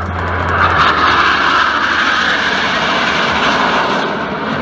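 F-16 fighter jet passing overhead in a display flight, the rushing noise of its jet engine swelling about a second in and easing off near the end.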